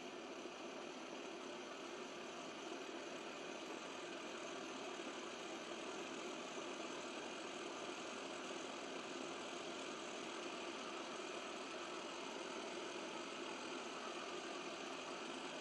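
Propane burner of a vintage plumber's lead-melting smelter, lit and burning with a steady rushing noise.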